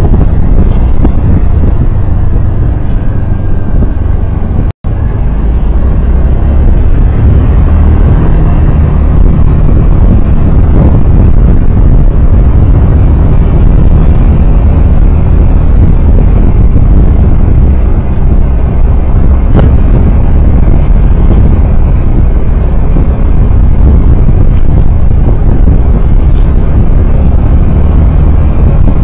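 Steady low rumble of a vehicle under way: engine, tyre and wind noise, with a split-second dropout about five seconds in.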